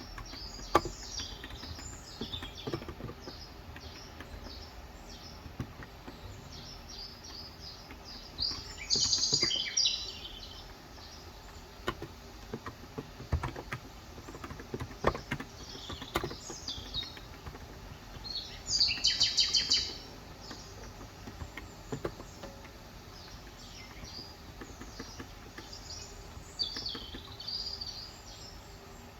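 Birds chirping in short bursts, loudest about nine seconds in and again near twenty seconds, over sparse, light key clicks from a Cox Endeavour electrostatic capacitive keyboard with 35 g switches.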